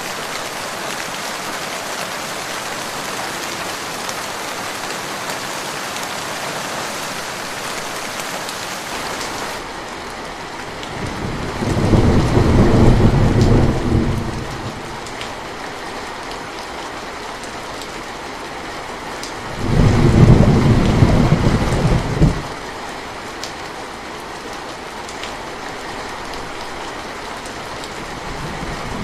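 Steady rain falling, with two low rolls of thunder: the first about eleven seconds in, lasting about three seconds, the second about twenty seconds in. The rain's hiss turns duller about ten seconds in.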